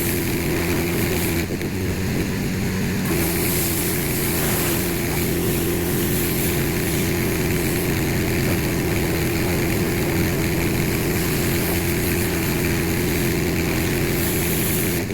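Husqvarna pressure washer running steadily and spraying water, the hiss of the spray stopping for about a second and a half near the start while the motor keeps going.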